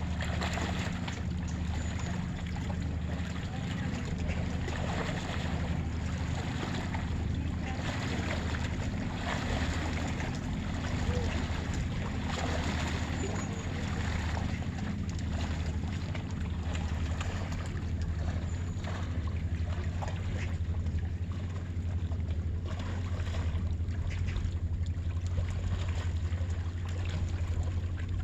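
Seaside ambience: a steady low rumble under an even hiss of wind and waves.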